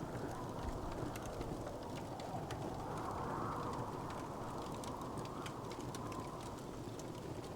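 Wood fire crackling, with many small scattered pops and snaps over a steady low rushing that swells gently a few times.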